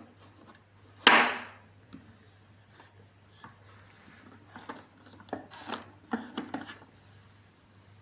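A sharp knock about a second in, then a run of lighter clicks and taps, from a vacuum cleaner's parts being handled while its motor is off.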